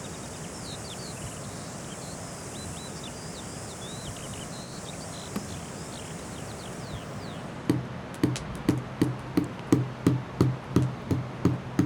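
Small birds chirping over a steady outdoor hiss. About eight seconds in, a homemade drum starts up, beaten in an even beat a little over two strokes a second, each stroke a dull thud.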